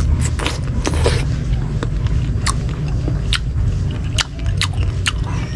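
Crunchy chewing of crisp green mango topped with bagoong alamang (shrimp paste): sharp, irregular crunches, about a dozen, over a steady low hum.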